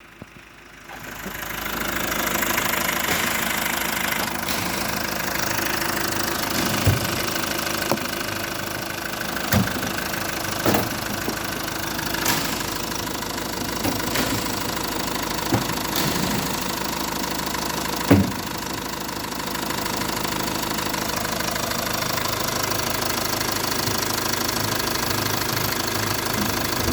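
A Great Wall Cannon X 2.0-litre turbo-diesel engine starts about a second in and settles into a steady idle. A few short sharp clicks or knocks stand out over the running engine between about 7 and 18 seconds in.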